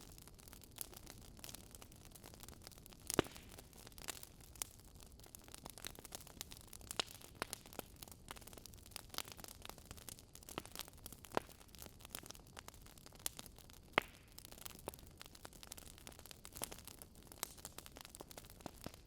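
Wood fire burning with irregular crackles and pops over a faint hiss, the sharpest pops about three seconds in and about fourteen seconds in.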